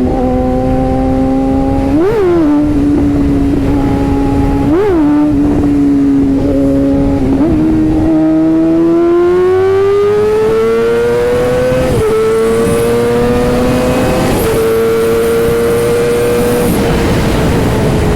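Sportbike engine running at a steady pitch with two quick throttle blips. It then accelerates with a slowly rising note and shifts up twice.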